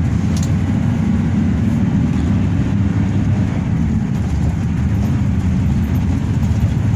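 Hino RK8 diesel coach under way, heard from inside the cabin: a steady low engine drone mixed with road and tyre noise.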